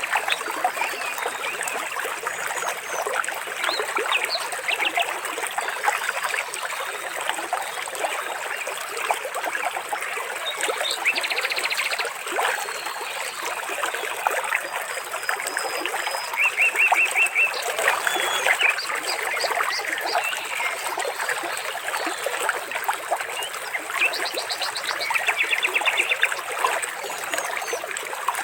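Water trickling and splashing steadily, a dense patter of small drops, with birds calling over it in short, rapid trills several times.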